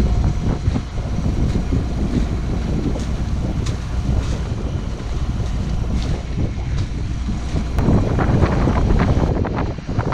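Wind buffeting the microphone over the rush of water along a sailboat's hull as it moves through the water. The buffeting grows rougher and a little louder near the end.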